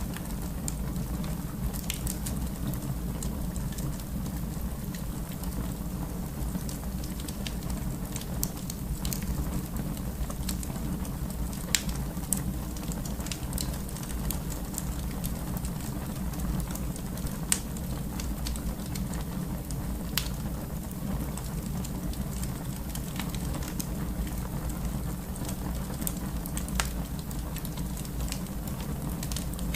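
Wood fire burning in a fireplace: a steady low rumble of the flames with constant small crackles and a few louder, sharp pops.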